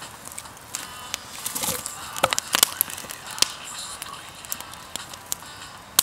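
Small wood campfire crackling, with irregular sharp pops of burning wood, a few of them loud.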